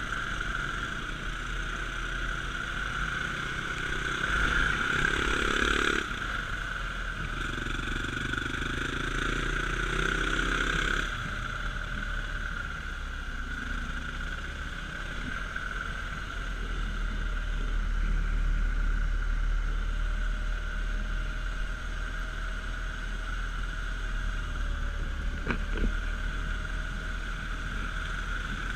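Dirt bike engine running as it is ridden, louder about four seconds in and again from about seven to eleven seconds in, then a fainter steady engine tone. There is a low rumble throughout and a single sharp click near the end.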